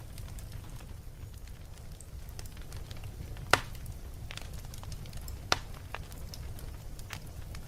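Wood fire burning in a fireplace: a low steady rumble of flames with scattered small crackles and two loud pops, about two seconds apart.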